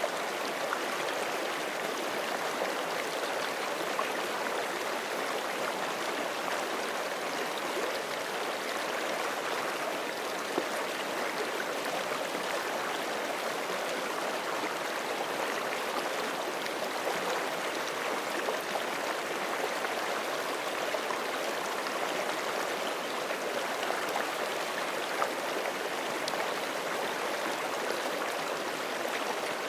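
Forest creek flowing over rocks: a steady rush of running water with small splashes and gurgles.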